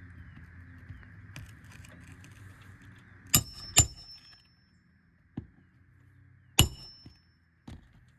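Hammer striking a steel roof snake to drive roofing nails in under the shingles. There are three loud, ringing metallic clangs, two close together about three seconds in and one more past the middle, with two lighter taps in between and near the end.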